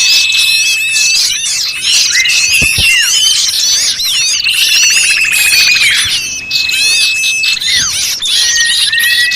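A dense chorus of many small songbirds calling at once: overlapping chirps, held whistles, falling sweeps and a buzzy trill about halfway through. It is a bird-lure (pikat) recording of noisy birds, played to draw small birds in.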